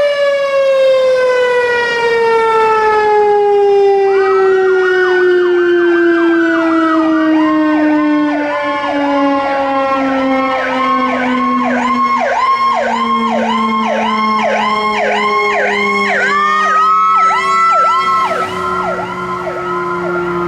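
Emergency vehicle sirens sounding on a response. One long siren tone falls slowly in pitch throughout. From about four seconds in, a second siren joins it in a fast repeating yelp, and a rising wail comes in near the end.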